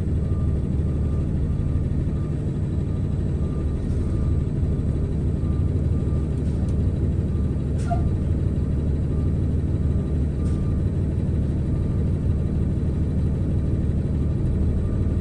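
Box truck's engine running with a steady low rumble. A faint short beep repeats a little faster than once a second over it.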